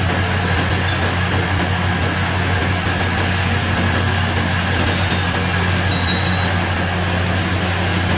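Electric commuter train running at the platform: a steady rumble and hum with thin, high-pitched wheel squeals that come and go, one in the first couple of seconds and another about halfway through.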